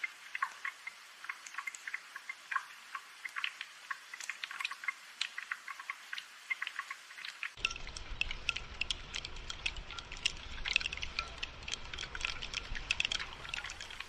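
Rain falling as many separate drops, dripping and pattering. About seven and a half seconds in, the sound changes abruptly: a low rumble joins the drops.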